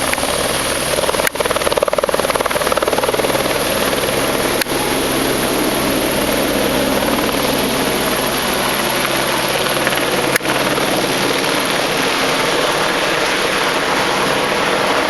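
Firefighting helicopter running steadily, its rotor and engine loud and continuous.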